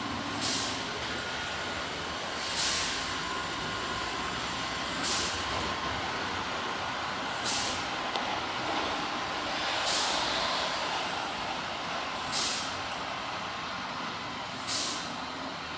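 Urquiza line electric commuter train standing at a signal, giving short hisses of air about every two and a half seconds over a steady background noise.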